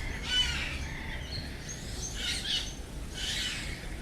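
Captive birds calling: three short, harsh calls spread across the few seconds, with fainter chirps between.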